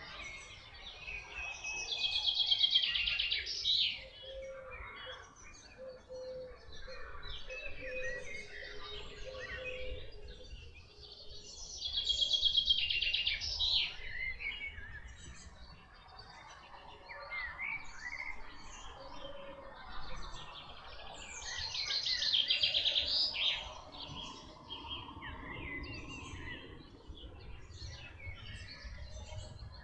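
Songbirds singing. One bird repeats a loud, fast trilled song phrase about every ten seconds, three times in all, while other birds chirp more faintly around it.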